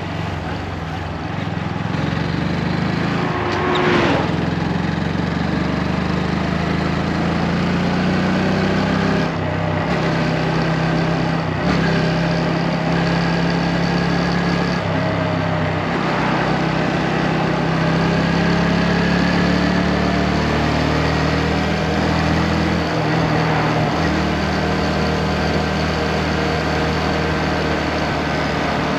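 Motorcycle engine running while riding, its pitch stepping up and down several times, over a steady rush of wind and road noise.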